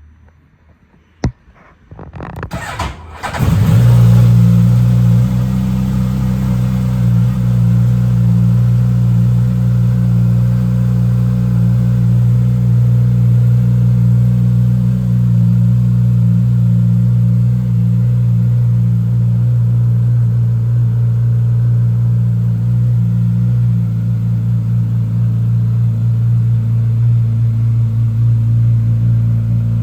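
Suzuki GSX-S1000's inline-four engine being started: a sharp click about a second in, a short burst of starter cranking, then it fires about three and a half seconds in and settles into a steady idle.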